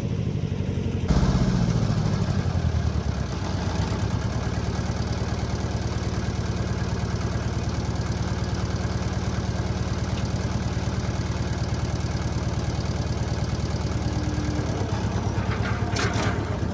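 A vehicle engine running. About a second in it revs up, then drops back to a steady idle over the next two seconds.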